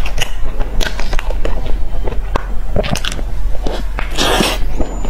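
Close-up eating sounds: a bite into a crisp-crusted pastry soaked in a soft custard-like sauce, then chewing with moist crunches and mouth clicks. About four seconds in comes a short, denser burst of noisy mouth sound.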